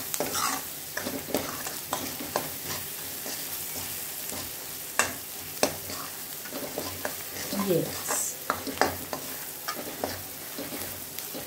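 Chopped onion and green chilli frying in a metal kadhai with a steady sizzle, while a metal ladle stirs them, scraping and tapping against the pan in irregular clicks, two of them sharper about halfway through. The onion is being sautéed until it turns reddish.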